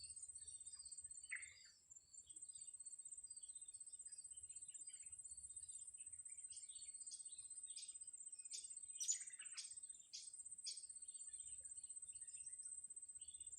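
Faint, high, thin chirps of small birds, with a run of sharp repeated calls about two a second in the middle. A steady high-pitched whine runs underneath.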